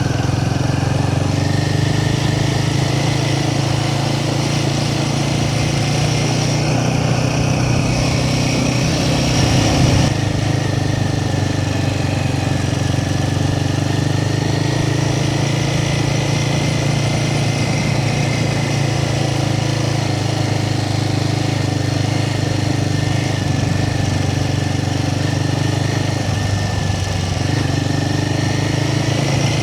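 Royal Enfield Himalayan 450's single-cylinder engine running steadily, with a brief louder surge about ten seconds in.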